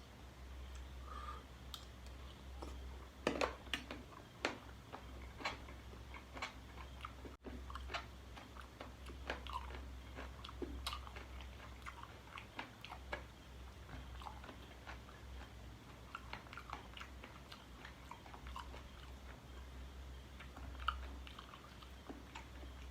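A person chewing spicy chicken feet salad close to the microphone, with scattered small crunches and clicks.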